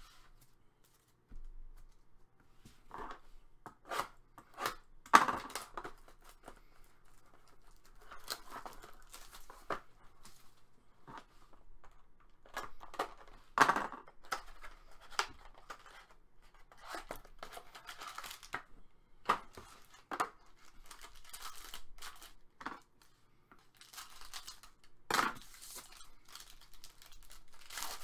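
Trading card packaging being torn open and crinkled by hand: a run of short, sharp tears and crinkles with pauses in between, the loudest about five, fourteen and twenty-five seconds in.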